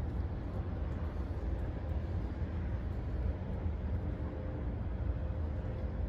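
Steady low rumble of outdoor background noise, unchanging, with no distinct events.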